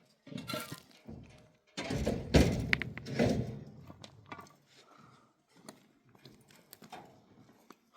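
A cluster of heavy thumps and knocks from about two to three and a half seconds in, followed by scattered lighter knocks.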